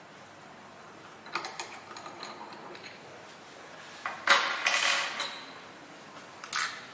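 Small metal parts and tools clinking and clattering as screws are fitted on the chopper's blade assembly: a few light clicks, then a louder clatter about four seconds in and another short one near the end.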